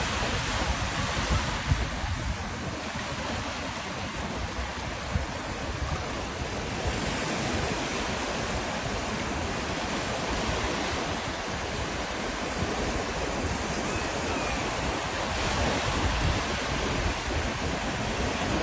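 Steady rushing water, with wind buffeting the microphone in a low, flickering rumble.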